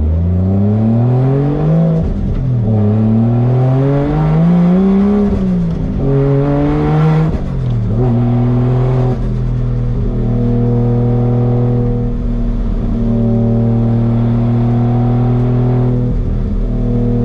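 Toyota 1JZ inline-six in a Nissan 240SX, heard from inside the stripped cabin while driving. The revs climb and drop back three times in the first eight seconds, then the engine holds a steady cruising note.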